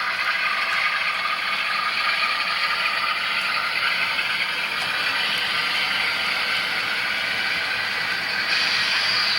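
Model train running along the track, its motor and gears whirring steadily with wheel noise on the rails. A high-pitched tone comes in near the end.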